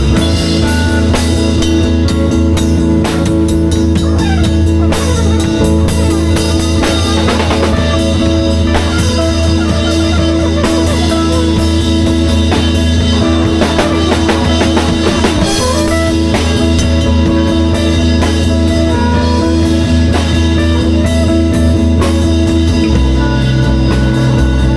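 Live band improvising: electric guitar over drum kit and a sustained bass line, with the bass moving to a new note near the end.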